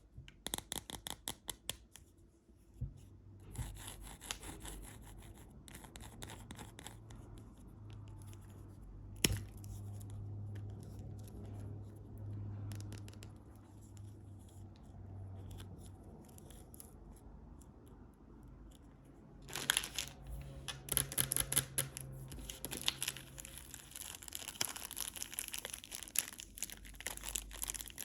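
Candy wrappers being torn open and crinkled by hand, in dense bursts of crackling at the start and again through the last third, with quieter rubbing and one sharp click in between.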